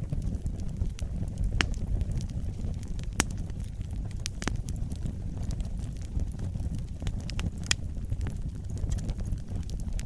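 Wood fire burning in a fireplace: a steady low noise of the flames with sharp crackles and pops every second or two, a few of them louder.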